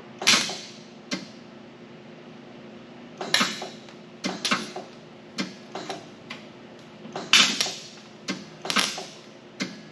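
Sheet-metal patch panel being knocked and tapped into place in a truck's cab corner: a dozen or so sharp, irregular metallic knocks and clacks, some in quick pairs, over a faint steady hum.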